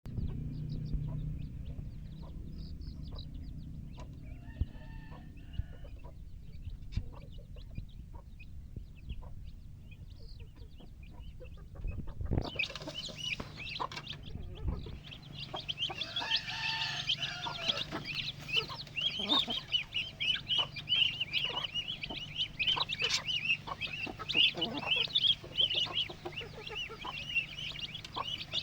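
Baby chicks peeping, many high chirps overlapping, faint at first and then much louder and denser from about twelve seconds in. Two longer, lower calls stand out, one near the start and one in the louder stretch, and a low rumble runs under the first half.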